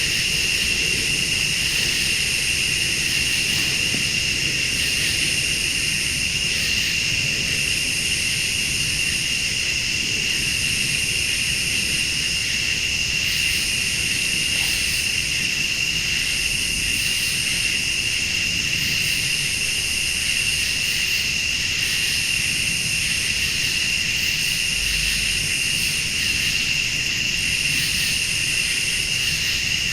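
A chorus of crickets and late-summer insects: a steady high trill, with a higher buzzing insect call that starts and stops in repeated phrases a second or two long. A low steady rumble runs underneath.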